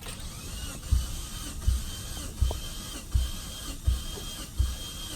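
Starter motor cranking a Mitsubishi Lancer Evolution X's four-cylinder engine with its spark plugs out during a compression test. A steady whine runs under a low thump about every three-quarters of a second as the cylinder with the gauge comes up on compression; that cylinder reads 110 psi.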